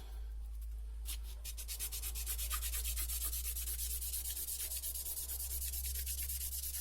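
Sealing ring from under a Bosch common-rail injector rubbed by hand on fine 2500-grit sandpaper laid on glass, in rapid, even back-and-forth strokes starting about a second in. The ring is being lapped flat so that combustion gases cannot leak past it.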